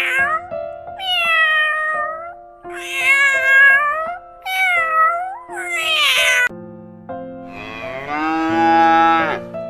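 A domestic cat meowing about five times in a row, each meow rising and falling in pitch, then near the end one long cow moo, over light background music.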